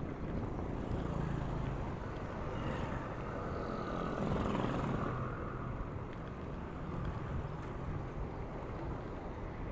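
Steady road noise heard while riding a bicycle along a highway: rumble and wind on the microphone, with traffic. The noise swells briefly about four to five seconds in.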